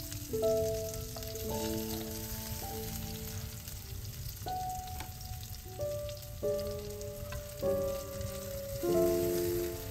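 Floured meat frying in oil in a pan, a steady sizzle, under calm background music of slow, held notes.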